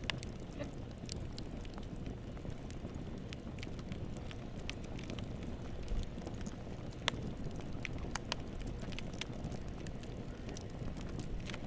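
Wood fire in a fireplace crackling: a steady low rumble of burning with irregular sharp pops and snaps, one louder pop about seven seconds in.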